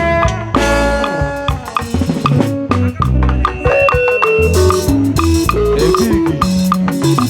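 Live band music playing an instrumental passage with no singing: a drum kit keeps a steady beat over a bass line, with melodic instruments playing held and stepping notes on top.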